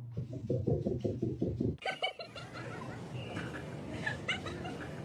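A pet animal's vocal sounds. About two seconds in the sound changes abruptly to a run of short, high, repeated calls.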